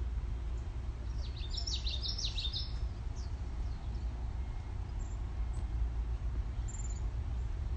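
Bird chirping: a quick burst of high twittering notes about a second and a half in, then a couple of short high calls later. A steady low rumble runs underneath.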